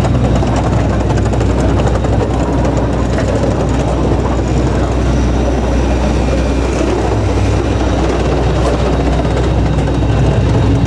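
Steady cabin hum inside an Airbus A320neo parked at the gate, the air-conditioning ventilation running with no engines started yet.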